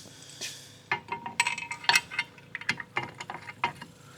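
Steel parts and tools clinking and clicking as an engine stand bracket is handled and bolted on; a quiet start, then a quick irregular run of sharp metal clinks from about a second in, a few of them ringing briefly.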